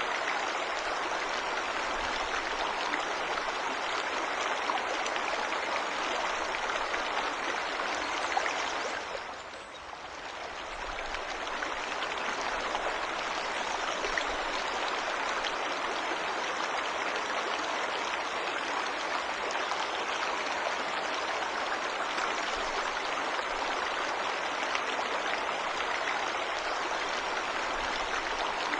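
Steady rushing and splashing of a forest waterfall, an even wash of water noise that dips briefly about nine seconds in and swells back.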